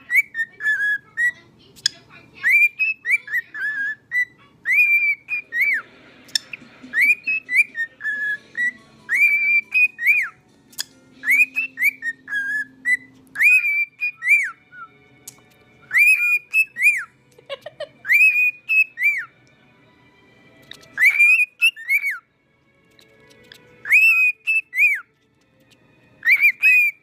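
Cockatiel whistling a tune: short rising-and-falling notes repeated in phrases, with pauses between them.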